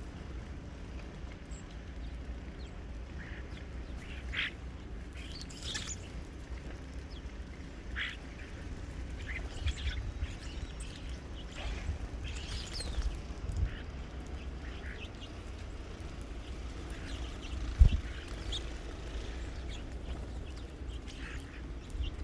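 Birds at a feeder giving short, scattered calls over a steady low rumble, with one sharp thump late on.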